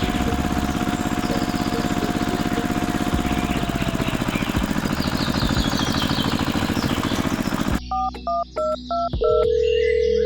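A tractor engine running with a fast, even chug, with high chirps over it. About eight seconds in it cuts off abruptly, and five short two-tone beeps like telephone keypad tones follow, then one steady, held beep.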